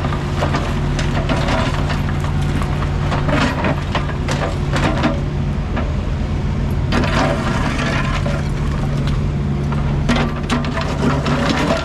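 Heavy diesel excavator running steadily while its bucket or grapple breaks through demolition debris, with repeated bursts of cracking and crunching several times over.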